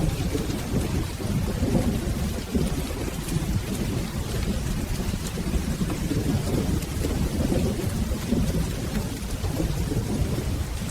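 Rolling thunder rumbling continuously, swelling and fading, under steady rain.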